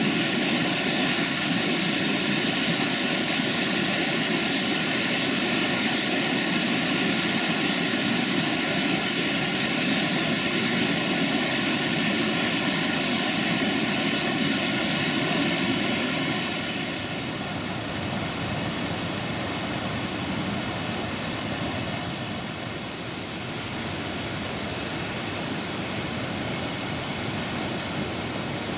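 A train running by with a steady engine drone over rolling noise. About two-thirds of the way through, the drone fades, leaving a steady rushing noise.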